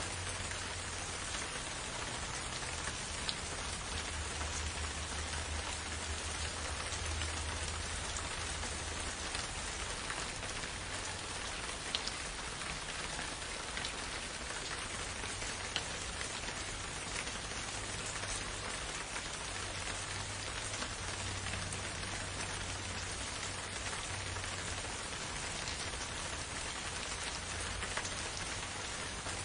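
Steady rain falling, an even hiss with a few single louder drops ticking close by now and then.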